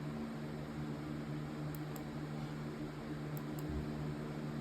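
Steady low hum with an even hiss behind it, the background noise of the recording, with faint high ticks in pairs every second and a half or so.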